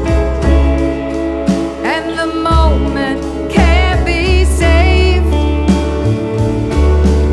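A country-pop song: a woman singing a wavering, held melody over bass, drums and guitar.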